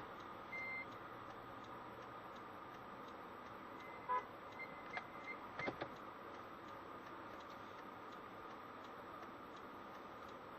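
Faint steady car-interior hum with a few short electronic beeps: one about half a second in, then a quick cluster of beeps and clicks about four to six seconds in.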